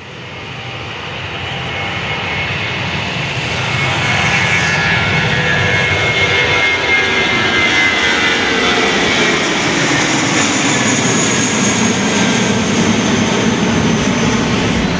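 Airliner engines growing louder over the first few seconds, then holding at a steady roar with a high whine.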